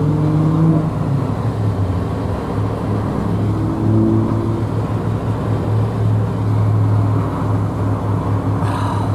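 Steady road noise inside a moving car at highway speed in the rain: a constant low engine and tyre drone with a few faint tones drifting slowly in pitch.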